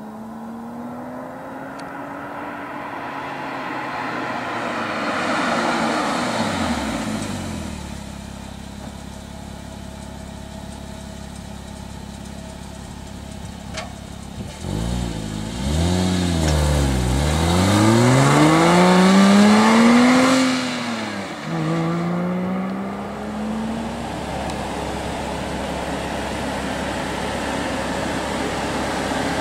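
2008 Porsche Boxster S's 3.4-litre flat-six accelerating past, its note rising and then falling away as the car goes by. Later comes a louder pass under acceleration: the pitch climbs, drops once at a gear change, and climbs again. Near the end a steady hum is left.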